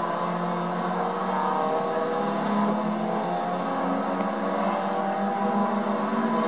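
Engines of several Stock Hatch rallycross cars running together as the pack laps the circuit, a steady blend of engine notes that rise and fall slightly.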